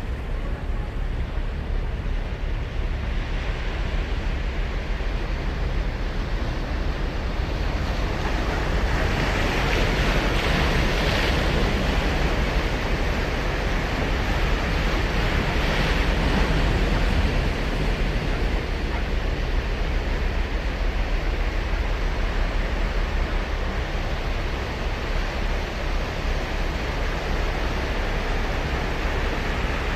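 Ocean surf breaking and washing ashore, with wind buffeting the microphone as a low rumble. The surf swells louder about a third of the way through and again around the middle.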